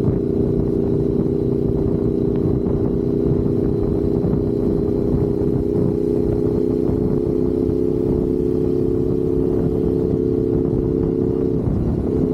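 Motorcycle engine running at a steady cruising speed while riding, with a low wind-and-road rumble underneath; its note breaks briefly near the end and then settles again.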